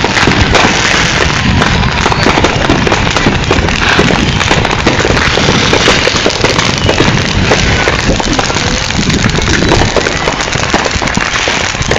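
Consumer fireworks crackling loudly, a dense, unbroken run of rapid pops.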